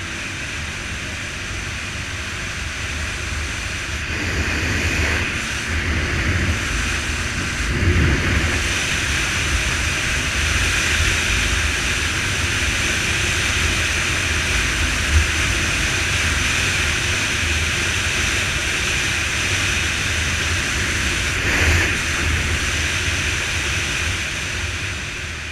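Motorcycle engines running, a steady mechanical noise that builds over the first few seconds, with brief louder surges twice.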